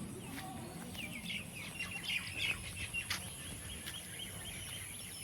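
Small birds chirping and twittering in quick runs of short chirps, busiest in the middle, over a faint steady high hiss.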